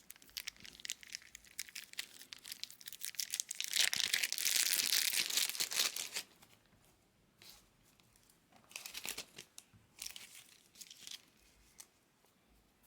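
Baseball card wrappers being handled and torn open: crackling crinkles, then a louder tear lasting about two seconds, starting about four seconds in, then a few more scattered crinkles.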